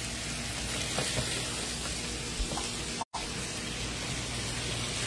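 Food sizzling steadily in hot oil in a pan on the stove, broken by a brief silence about three seconds in.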